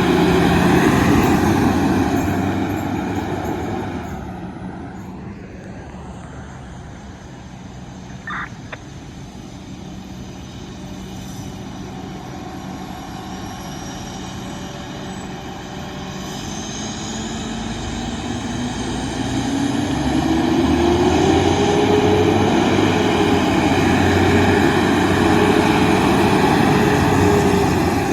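Diesel fire trucks driving past: one truck's engine fades away over the first several seconds, then a second truck approaches, its engine note rising in pitch, and runs loudly near the end. A brief high tone sounds about eight seconds in.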